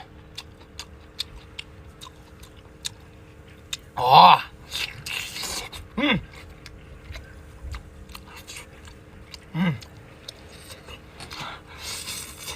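A person chewing noodles with raw scallion and garlic, with many small wet mouth clicks. Three short murmured voice sounds falling in pitch come about four, six and nearly ten seconds in, the first the loudest.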